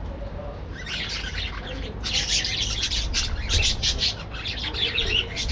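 A colony of budgerigars chattering and squawking: many rapid overlapping short calls, thin for the first second or so and growing busy from about two seconds in, over a steady low rumble.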